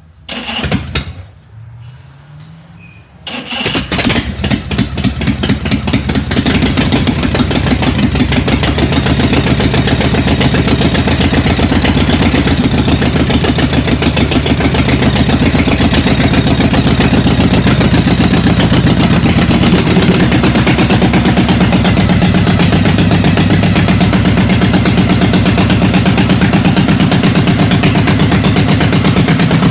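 A 1956 Harley-Davidson Panhead stroker V-twin starting: a brief first attempt, then it catches about three seconds in, stumbles up in uneven bursts and settles into a steady, loud run with an even pulsing beat.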